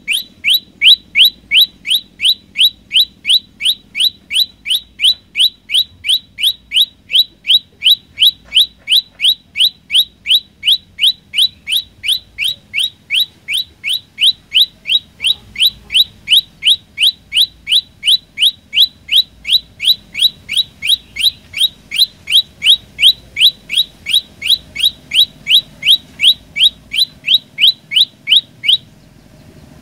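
Olive-backed tailorbird calling: one sharp, high chirp repeated evenly about two to three times a second, with a brief pause near the end before the calls resume.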